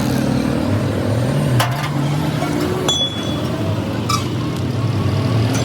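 An engine running steadily, with a few sharp metallic clinks.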